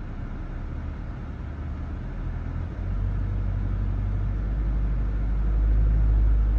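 Subaru SH engine held at about 1500 rpm in drive against the handbrake, giving a steady low droning vibration that grows louder about three seconds in and again near the end. This is the weird vibration sound that the owner is trying to show.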